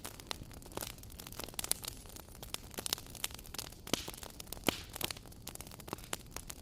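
Wood fire crackling: irregular sharp pops and snaps over a steady soft hiss, with a few louder pops scattered through.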